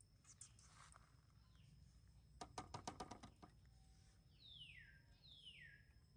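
Faint garden birdsong: a bird repeats a short falling whistled call, with two louder ones in the second half. A quick run of about nine sharp ticks sounds near the middle, over a faint steady high-pitched hum.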